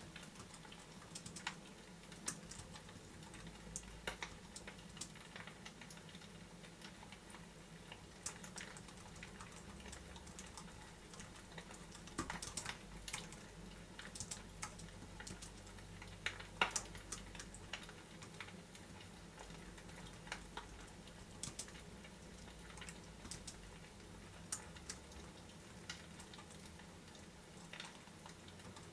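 Faint, irregular sharp clicks and taps, a few louder ones in small clusters, over a steady low hum.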